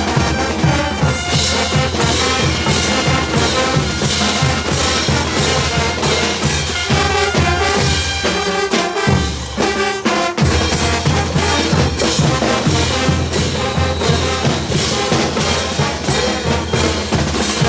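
Brass band playing caporales music, trumpets and trombones over drums, with a steady beat.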